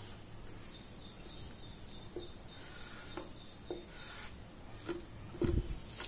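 A small bird chirping in a quick run of high, repeated chirps, about four a second, lasting some three seconds. Toward the end come a few light taps and a dull thump, from hands handling and smoothing newspaper on a wooden table.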